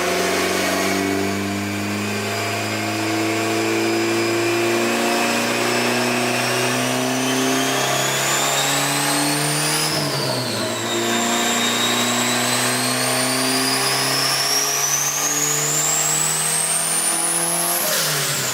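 Turbocharged Honda B20V four-cylinder running at full throttle on a chassis dyno in two pulls: the whine climbs steadily in pitch, falls off sharply about ten seconds in as the throttle closes, then climbs again and falls off near the end.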